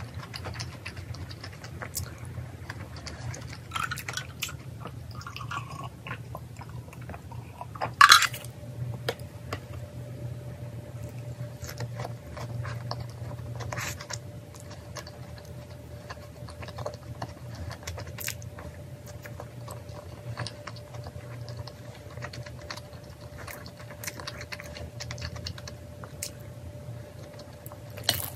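A person chewing and crunching food, with many small crackles and bites. A steady low hum runs underneath, and one short, loud sound comes about eight seconds in.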